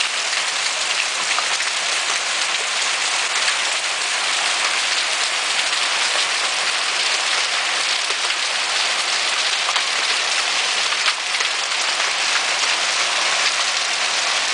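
Hailstones and rain pelting down steadily in a storm: a dense, even hiss of countless small impacts.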